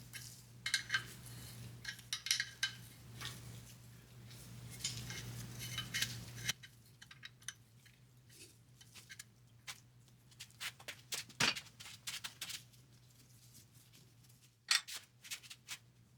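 Light metallic clinks and taps of wrenches and steel bolts being handled on a VW Beetle front beam, in small clusters, with one sharper knock about eleven seconds in. A low steady hum cuts off about six and a half seconds in.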